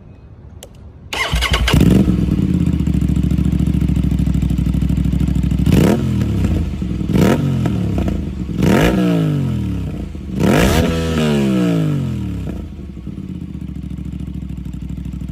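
Aprilia RS 457's parallel-twin engine through an SC-Project aftermarket exhaust. It fires up about a second in and idles, is blipped four times with each rev rising and dropping back, then settles to a quieter idle near the end.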